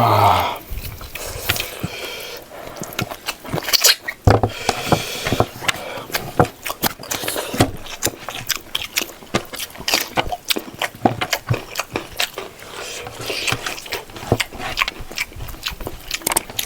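Close-up mukbang eating sounds: chewing and biting pork leg and rice, a dense run of sharp, irregular mouth clicks and smacks several times a second.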